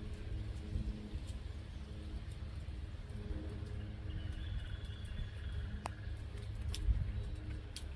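Faint bird calls over a low wind rumble, with a few sharp clicks near the end.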